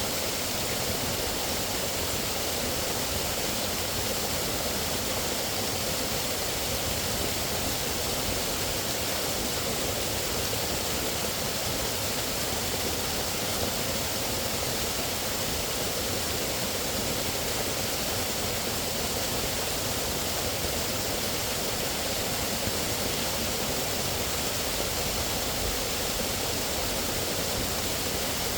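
Steady rushing of flowing water, even and unbroken, with no distinct splashes or other events.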